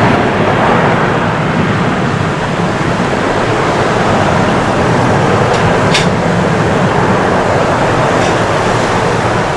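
Airbus A330-300 jet engines running at high power, a loud steady rumble and rush of jet noise.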